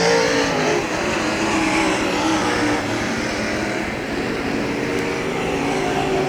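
Several UMP dirt modified race cars running warm-up laps, their V8 engines at speed. The engine notes overlap and rise and fall in pitch as the cars go around.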